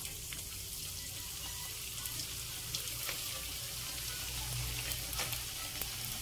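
Chicken-filled wontons frying in a wok of hot oil: a steady sizzling hiss with scattered small crackles and pops.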